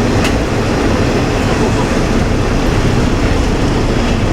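KiHa 20 diesel railcar under way: its DMH17 diesel engine rumbling steadily along with the running noise of its wheels on the rails, and a single sharp click about a third of a second in.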